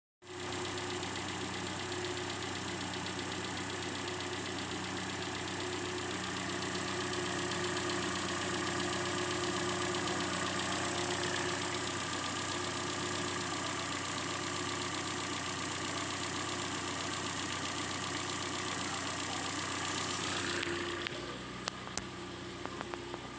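2011 Hyundai Elantra's 1.8-litre four-cylinder petrol engine idling steadily, heard from the open engine bay. Near the end it drops away and a few sharp clicks are heard.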